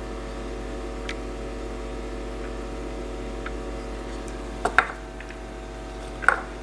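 Steady hum under a few light clicks and taps on a repair bench, with two sharper clicks near the end.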